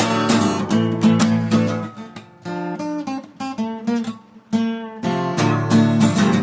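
Instrumental music: a strummed guitar. It drops to a quieter stretch of single picked notes in the middle, then the full strumming comes back.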